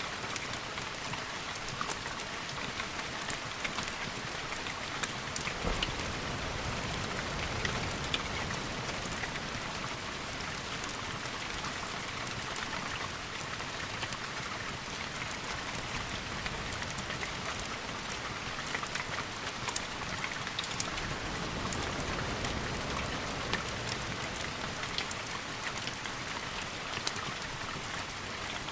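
Steady rain in a storm ambience mix, with many small sharp ticks scattered through it. A low rumble swells up about six seconds in and again around twenty seconds in.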